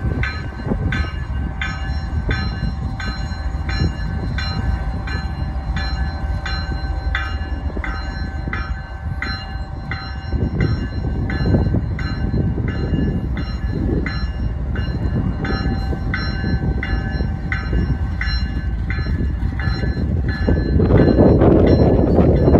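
Freight train's diesel locomotives approaching, a low rumble under a bell ringing steadily at about three strikes every two seconds. The rumble swells much louder near the end.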